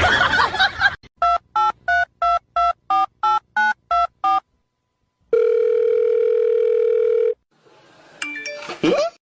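Telephone keypad tones: about ten quick two-note beeps as a number is dialled, followed by a steady ringing tone lasting about two seconds.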